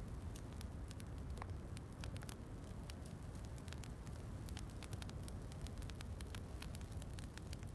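Fireplace crackling, with frequent sharp pops and snaps over a steady low rumble.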